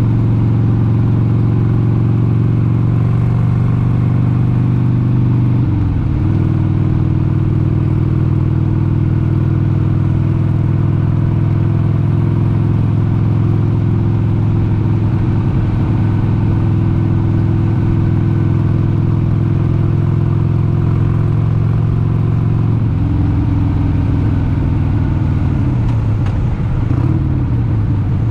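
A 1996 Harley-Davidson XLH883 Sportster's air-cooled 883 cc V-twin running under way at a steady cruise. Its note breaks briefly about six seconds in. From about two-thirds through, the pitch drops and wavers as the engine speed changes.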